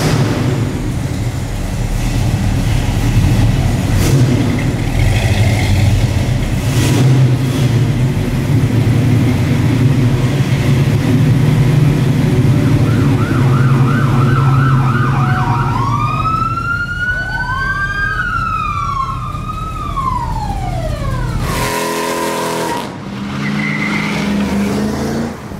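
Car engine running with a steady low rumble, then a siren starts: a fast repeating yelp about halfway through, followed by several long rising-and-falling wails. Near the end comes a brief low pitched tone.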